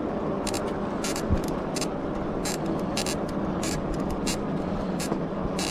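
Riding noise from a CyRusher XF900 fat-tyre e-bike on asphalt: steady wind and tyre rush with a constant low hum, likely from its 750 W Bafang motor. Short hissy crackles recur irregularly about twice a second.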